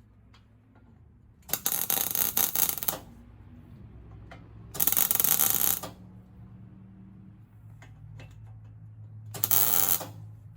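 Three short bursts of crackling from a welding arc, like tack welds being laid on steel, each starting and stopping abruptly, the first about a second and a half in and the last near the end. A faint steady low hum runs underneath.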